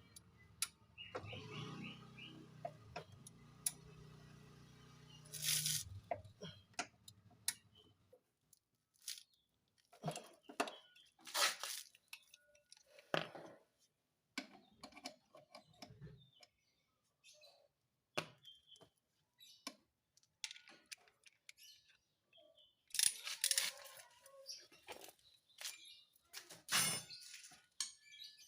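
Irregular metallic clicks, knocks and short squeaks of hand tools and parts being handled during car repair. A low steady hum runs underneath for the first several seconds and cuts off about eight seconds in.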